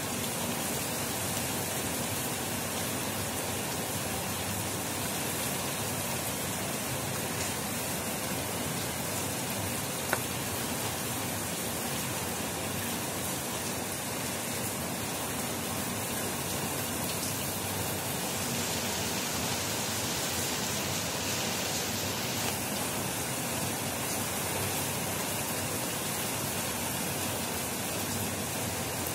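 Heavy rain falling in a steady downpour, an even dense hiss of rain. A single sharp tick comes about ten seconds in, and the rain turns briefly hissier about two-thirds of the way through.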